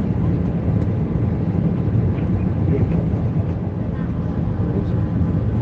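Airbus A320 cabin hum in flight: a steady, even drone of engine and airflow noise, heard inside the passenger cabin, with its weight in the low end.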